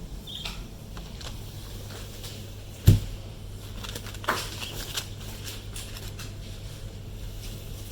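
Household handling sounds: one heavy thump about three seconds in, then a couple of lighter clicks, over a steady low hum.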